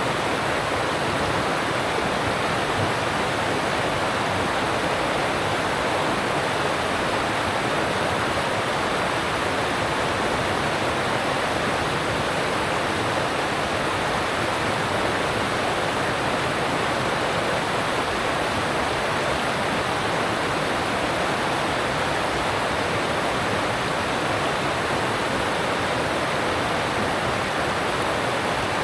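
Alpine stream rushing over rocks: a steady, unbroken rush of water.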